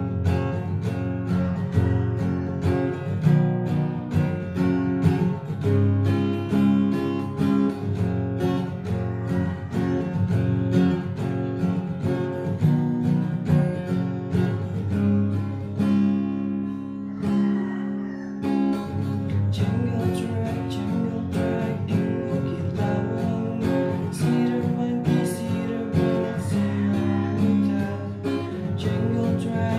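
Music: strummed and plucked acoustic guitar with a steady rhythm, possibly with singing.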